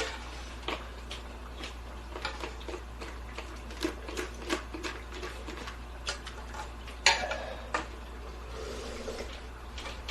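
Light, irregular clicks and clinks of dishes and utensils being handled, with a sharper clink about seven seconds in.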